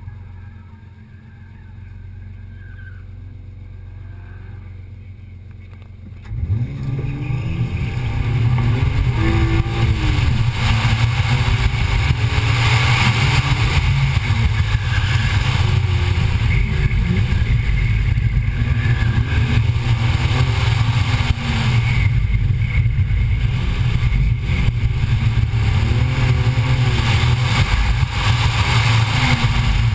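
Car engine idling, then launching hard about six seconds in and revving up and down repeatedly as the car is driven fast through a cone course.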